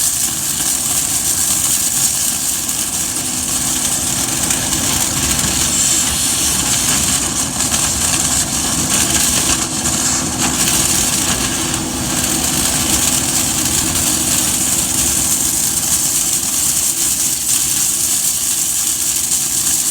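Dryer-vent cleaning equipment running steadily: a constant motor hum under a loud rushing hiss of air, with no change in speed.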